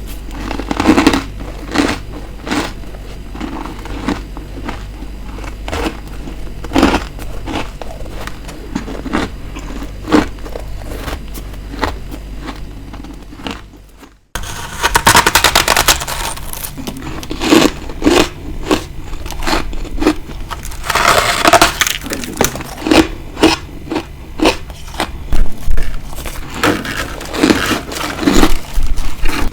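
Close-up bites of hard ice, each a sharp crunch, about one every second, over a steady low hum. About halfway through there is a brief drop, then the bites come thicker, with a longer run of crunching and chewing.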